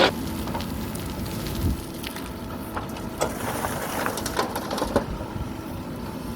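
Mahindra backhoe loader running steadily while it works gravel: crunching and clattering with several sharp knocks, one at the start and a few more between about three and five seconds in.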